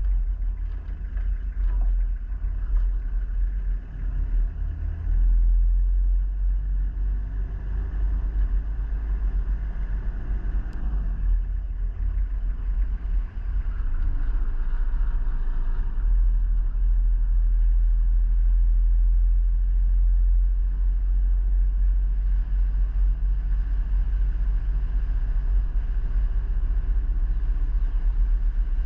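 A road vehicle driving, with a steady low rumble of engine and road noise.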